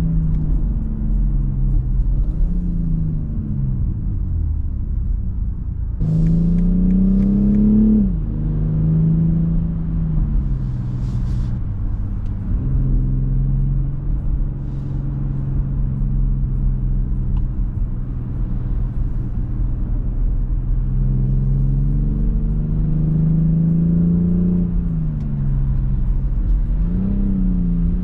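BMW X6 xDrive40i's turbocharged 3.0-litre inline-six engine pulling through the automatic's gears while driving: its pitch climbs under acceleration and drops sharply at the upshifts, most clearly about eight seconds in and again near the end.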